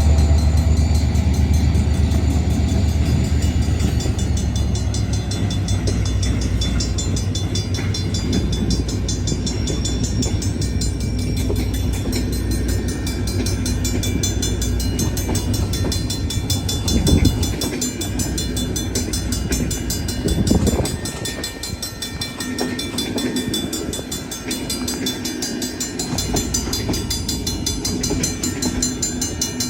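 Passenger train passing, its wheels rumbling and clattering in a rapid even rhythm on the rails. A heavy low rumble at the start eases off. Two short louder bumps come about 17 and 20 seconds in.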